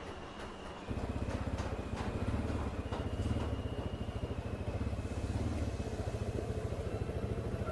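Quad bike engine running steadily at low revs with a fast, even low throb, cutting in abruptly about a second in.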